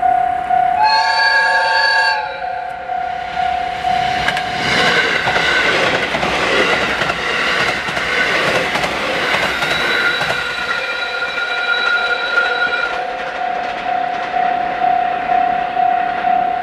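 Level crossing alarm ringing with a repeating electronic tone. About a second in, a JR 721 series electric train sounds a short horn blast, then passes with rumbling and wheels clattering over rail joints for about eight seconds, and the crossing alarm rings on after it.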